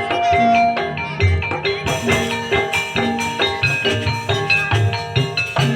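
Music accompanying an ebeg Banyumasan dance: mallet-struck gamelan-type keyed instruments play a busy, repeating melody of quick notes over deep hand-drum strokes.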